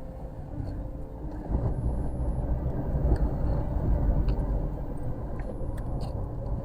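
Low rumble of a Honda Element driving, with road and wind noise heard inside the cabin. It grows louder about a second and a half in.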